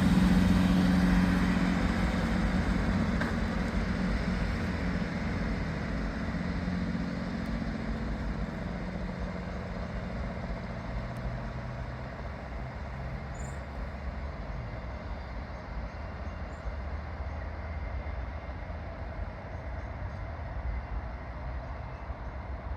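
Northern passenger train pulling away, its engine hum and rail rumble fading gradually as it recedes.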